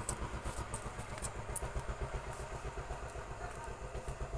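An engine running steadily at idle, a fast even low pulsing, with a few faint light clicks over it.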